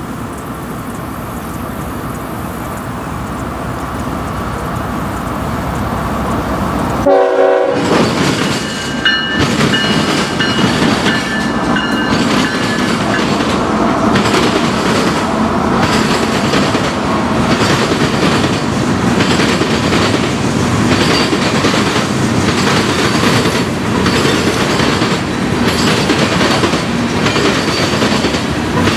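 Freight train passing close by, growing louder as it approaches. A horn sounds briefly, then the railcar wheels clatter over rail joints in a steady rhythm about once a second.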